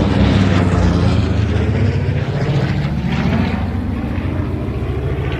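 World War II warbird's radial engine and propeller droning loudly as the plane goes past. The pitch drops slightly at the start, then the sound holds steady and slowly fades. The plane is taken for a Vought F4U Corsair.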